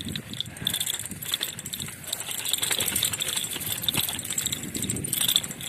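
Rattling and clicking of a ride over a rough road, with steady wind noise on the microphone.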